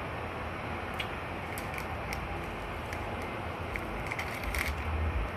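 Faint scattered clicks and crackles over a steady hiss of background noise, with a low rumble near the end: small handling noises.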